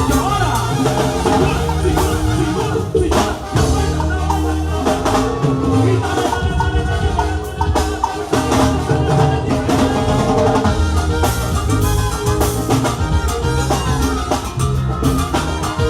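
Live Latin dance band playing an instrumental passage, with a steady bass line, drum kit and percussion keeping a driving beat.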